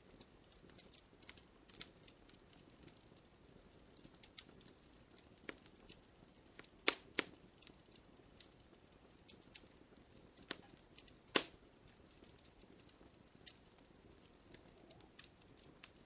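Wood fire crackling in a fireplace: irregular small crackles and snaps, with a few louder pops about seven seconds in and again about eleven seconds in.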